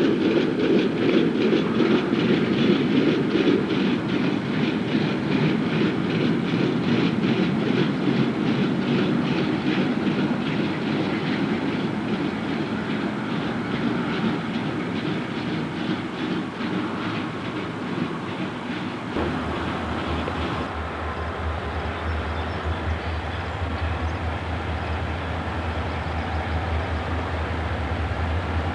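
Railroad cars rolling past, their wheels clicking in a steady rhythm over the rail joints. About two-thirds of the way through, the sound changes abruptly to a steady low rumble.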